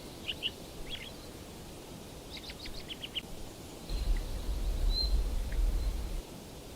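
Songbirds chirping: a few short high calls, then a quick run of chirps about two and a half seconds in, then thin high whistles. A low rumble joins about four seconds in and stops shortly before the end.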